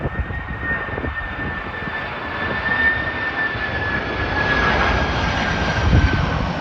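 Jet engines of an Asiana Boeing 767-300 airliner running, a steady rushing noise with a high whine that falls slightly in pitch near the end.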